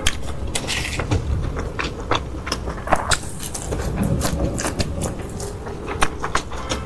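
Close-miked eating sounds: chewing with irregular sharp crunches and mouth clicks, over a steady low hum.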